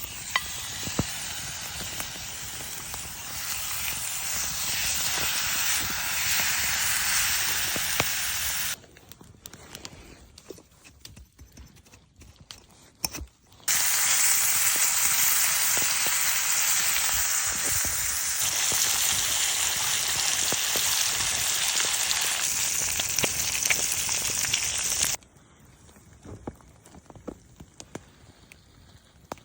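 Food sizzling in a hot frying pan: two long stretches of steady sizzle, the first building over its first few seconds, each cutting off abruptly. Between and after them, quieter scattered crackles and clicks.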